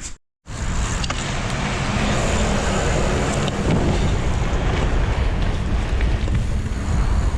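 Wind buffeting the microphone of a camera carried on a moving bicycle: a steady, loud rushing noise with a heavy low rumble. It follows a split second of silence at the very start.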